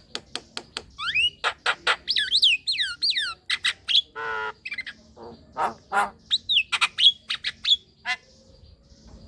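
Javan myna singing vigorously: a fast run of sharp clicks, then rising and falling whistles and harsh squawks, with a buzzy grating note about four seconds in. The calling stops about a second before the end.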